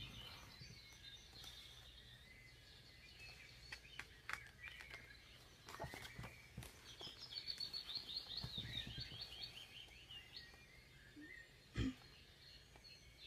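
Faint background birds chirping and tweeting, with a quick run of repeated high notes midway. A short sharp click comes near the end.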